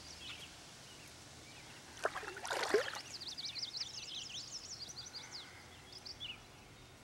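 A songbird singing in quick, repeated chirps over a faint steady outdoor background, with one short louder noise about two and a half seconds in.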